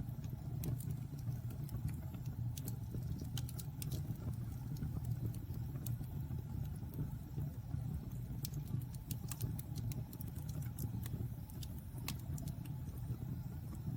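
Wood fire burning in a fireplace: a steady low rumble of the flames with scattered, irregular crackles and pops of the burning wood.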